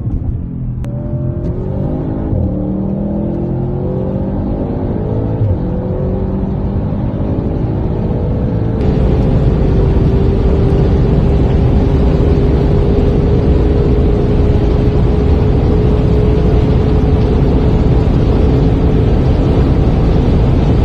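Audi RS7's twin-turbo V8 accelerating hard, the engine pitch rising and dropping back through several upshifts. About nine seconds in, the sound switches abruptly to a loud, even rush of wind and road noise with a steady engine drone at high speed.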